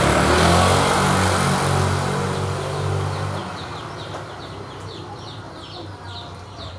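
A motor vehicle passes close by, its engine loud at first and fading away over the first three and a half seconds. Then a bird's short, quick falling chirps repeat several times a second.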